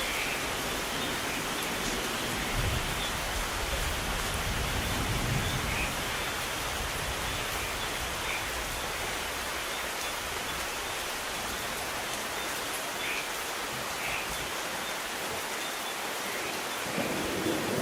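Steady rain, with a low rumble of distant thunder in the first several seconds. Thunder begins to build right at the end.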